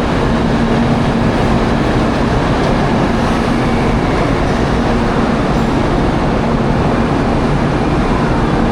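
Train running noise: a steady loud rumble with a constant low hum throughout.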